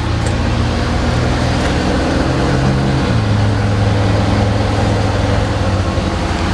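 Ford F-550's 6.7 Power Stroke turbo-diesel V8 idling with a steady low hum.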